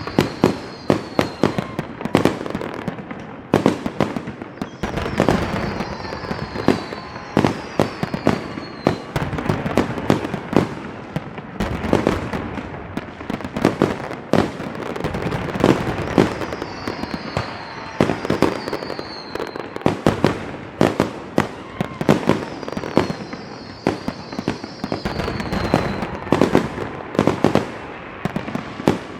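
Fireworks going off: a dense, continuous string of sharp bangs and crackles, with short falling whistles several times.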